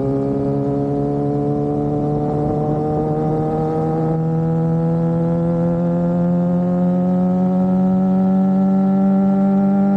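Suzuki GSX-R sport bike's inline-four engine pulling steadily in gear, its pitch rising slowly as the bike gains speed.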